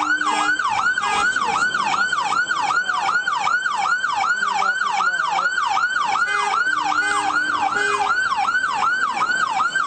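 Police car siren sounding in fast yelp mode, its pitch sweeping up and down about four times a second.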